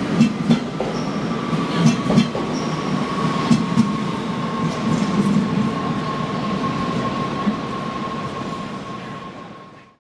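Electric passenger train moving past along the platform: its wheels clack over rail joints, most often in the first few seconds, over a steady high whine. The sound fades out near the end.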